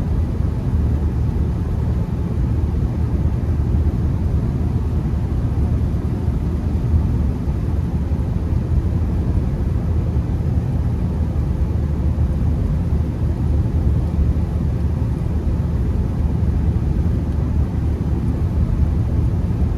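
Steady low rumble of tyre and road noise with a constant engine drone, heard from inside a Honda Accord's cabin while it drives on a snowy road.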